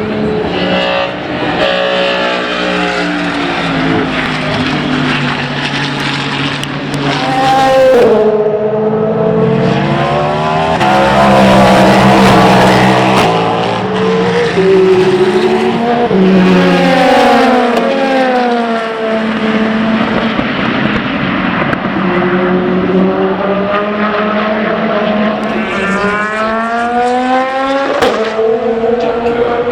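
Several endurance race cars passing on track in succession, their engines climbing in pitch through repeated upshifts under acceleration, loudest about twelve seconds in.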